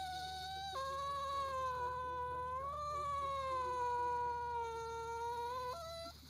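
A cat yowling in one long drawn-out call of nearly six seconds. The pitch drops sharply less than a second in, then holds nearly steady, and the call breaks off with a short final note near the end.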